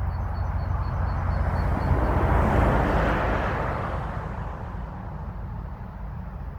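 A vehicle driving past: its noise swells to a peak about two and a half seconds in and fades away by about four and a half seconds, over a steady low rumble. A short run of high chirps, a bird, sounds in the first two seconds.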